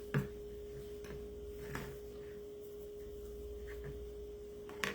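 A faint steady hum held at one pitch, with a sharp click at the start, a faint tick partway through and another click near the end, as of light handling.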